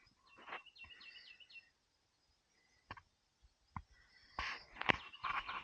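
A small bird singing a quick series of high chirps in the first second and a half. This is followed by scattered clicks, and a few louder sharp knocks near the end.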